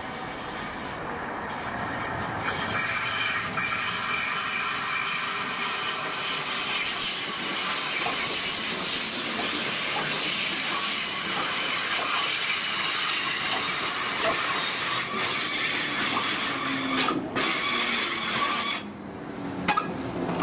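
A train running on the track: a steady noise of wheels on rails with several high, steady tones over it, dipping briefly near the end.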